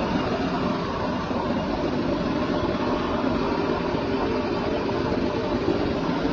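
Rice milling machinery running: a steady, dense mechanical drone with a low hum, unchanging throughout.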